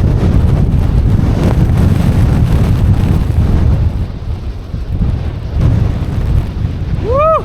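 Strong wind buffeting the microphone as a loud low rumble during a snowboard run in deep powder. Near the end comes a short rising-then-falling call, like a whoop.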